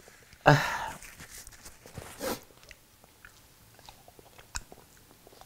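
A person chewing and eating close to the microphone: soft wet mouth clicks and small bites. There is a louder breathy rustle about half a second in.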